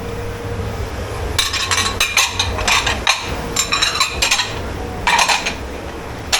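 Crockery and cutlery clattering and clinking in several bursts, starting about a second and a half in, over a steady low hum.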